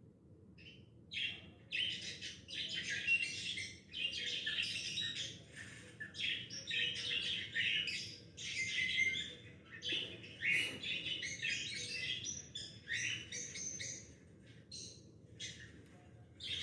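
Small birds chirping in quick, overlapping calls, a busy chatter that starts about a second in and goes on with short pauses.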